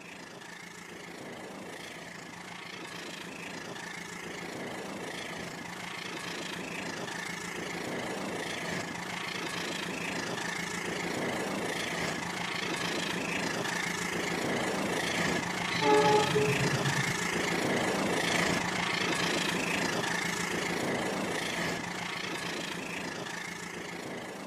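Rail King battery-powered toy train running on its track with a steady motor whir and a faint beat about once a second, growing louder and then fading. A short horn toot sounds about two-thirds of the way through.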